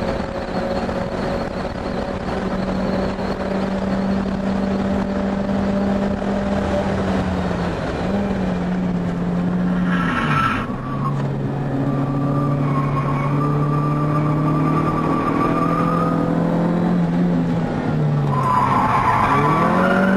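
Proton Satria Neo's four-cylinder engine heard from inside the cabin under hard driving on track, holding high revs, then dropping in pitch about halfway and holding steady lower, before dipping and climbing again near the end. Tyres squeal briefly in the corners.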